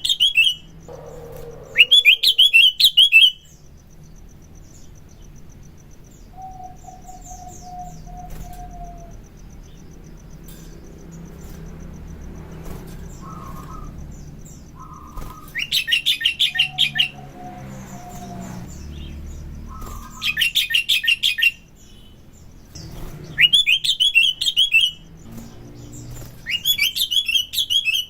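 Sooty-headed bulbul (kutilang) singing: about five loud bursts of rapid chattering notes, each a second or so long, with softer, lower whistled notes and short calls between them.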